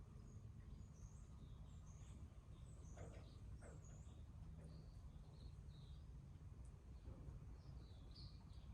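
Faint garden birds giving short, scattered chirps over a steady low background rumble, with a couple of brief clicks about three seconds in.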